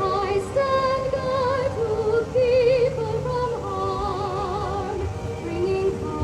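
A song: a singing voice with a wide, even vibrato holding long notes over instrumental accompaniment.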